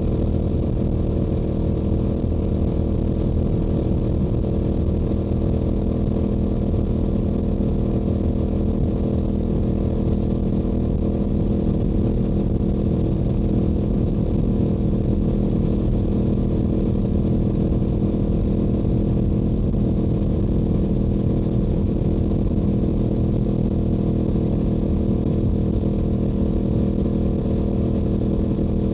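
Yamaha YZF-R7's 689 cc parallel-twin engine through its stock exhaust, running steadily at a constant highway cruising speed with no change in pitch.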